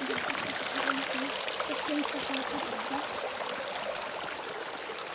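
Mountain river and waterfall rushing steadily.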